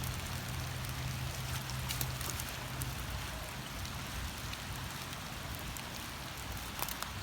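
Steady rain falling, with scattered sharp taps of drops striking close by; a low steady hum sits under it for the first three seconds.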